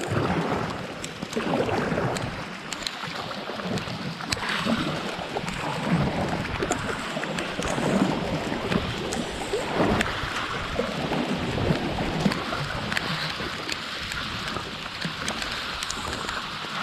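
Kayak paddle strokes splashing through the water, one every second or two, over the steady hiss of heavy rain with scattered drop ticks.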